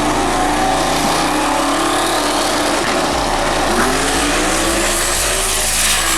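Twin-turbo Firebird drag car at full throttle, a loud engine note climbing gradually in pitch.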